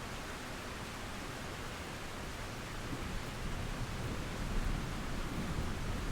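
Steady rain hiss, with a low rumble of distant thunder building from about halfway through.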